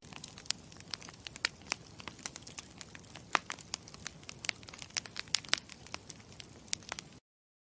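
Campfire crackling: a steady hiss with many sharp, irregular pops and snaps of burning wood, cutting off suddenly near the end.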